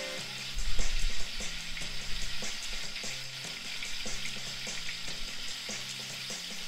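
Prawns frying in hot oil in a nonstick pan: a steady sizzle, with a dull low bump about a second in.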